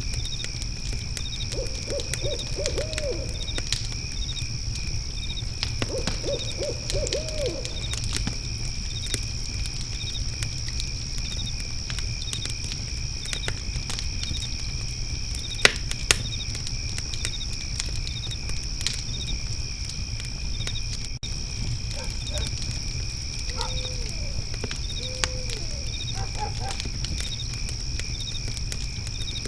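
Layered night ambience: a fire pit crackling with scattered pops, one louder pop about midway, over steady cricket trilling and chirps about twice a second. An owl hoots in short series of quick notes three times, near the start, a few seconds later, and again late on.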